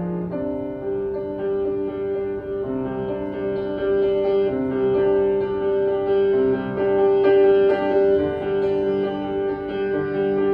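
Solo piano improvising: an upper note is held and struck again and again over lower notes that change every second or so.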